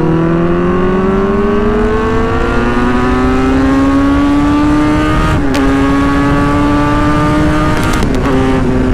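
Kawasaki Z900 inline-four with a loud aftermarket exhaust under hard acceleration, its pitch rising through a gear, then a quick upshift about five seconds in, another rising pull and a second upshift near the end. Steady wind rush sits under the engine.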